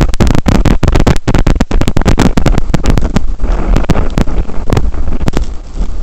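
Strong blizzard wind buffeting the camera's microphone: a loud, constant low rumble broken by rapid crackling pops where gusts overload the mic. The crackling thins out a little in the last couple of seconds.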